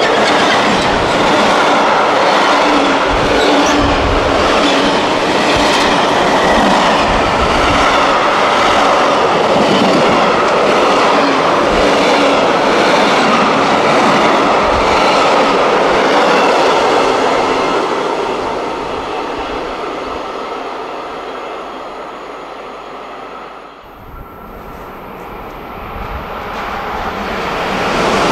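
Freight train of covered goods wagons passing close by, its wheels clattering over the rails with scattered low thuds in a loud, steady rush. About two-thirds of the way through the noise fades away. Near the end, after a sudden break, a new rushing sound builds up again.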